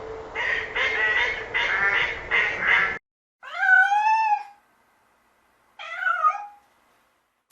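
Ducks quacking in quick repeated calls, cut off abruptly about three seconds in; then a kitten meows twice, a long meow that rises and falls, then a shorter one.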